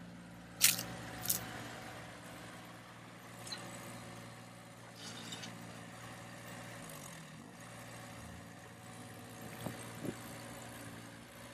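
Plastic Bruder toy construction vehicles being handled: two sharp plastic knocks about half a second apart near the start, then a few lighter clicks, over a steady engine-like hum.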